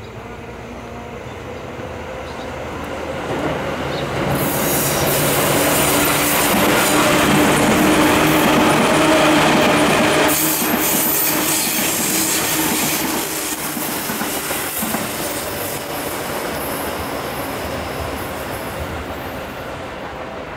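Seibu 2000 series steel-bodied, field-chopper-controlled electric train passing close by. Wheels clatter over the rail joints and the running gear hums. The sound builds for the first few seconds, is loudest about a third to halfway through, then slowly fades.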